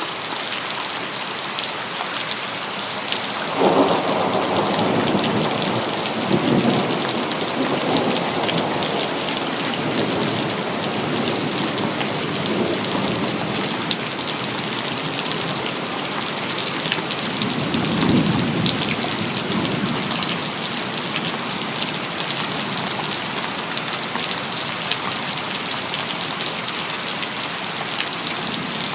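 Steady rain falling on hard surfaces, with a thunderclap about three and a half seconds in that rolls on in a low rumble for several seconds, and a second, softer roll of thunder a little past halfway.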